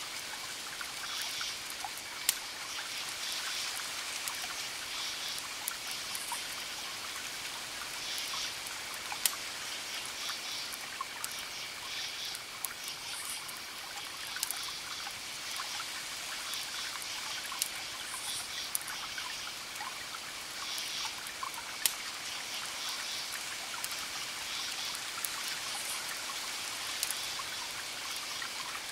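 Wood fire crackling, with a steady hiss and sharp pops every few seconds, a few of them louder than the rest. Short high chirping calls repeat throughout.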